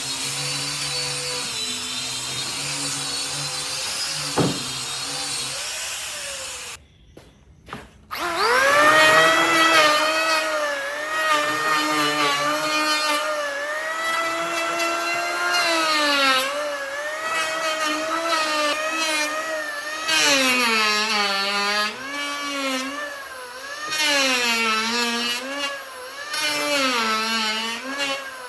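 Electric power tool motor whining as it runs. After a short break it spins up again, and its pitch sags and recovers again and again, as a motor does when it is pressed into the work and eased off.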